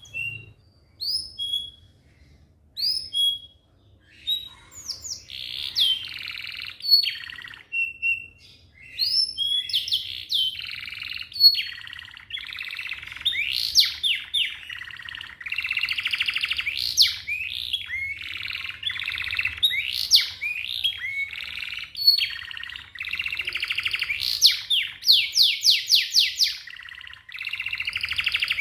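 Young domestic canary singing. It starts with separate chirps and short rising whistled notes, then from about twelve seconds in runs into a fast, almost unbroken song of rolling trills and quick rising sweeps.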